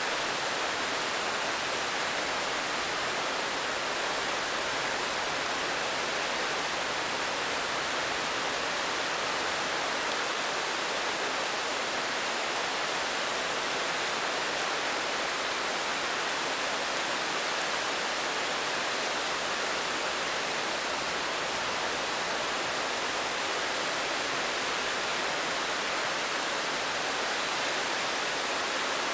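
Steady rain, a dense even hiss with no single drops standing out.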